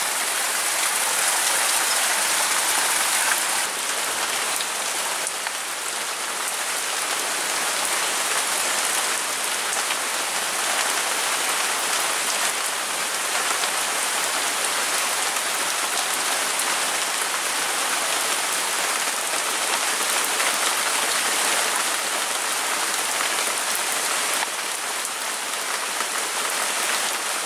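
Steady heavy rain falling on broad-leaved garden plants and the ground, with a stream of runoff pouring down from the roof.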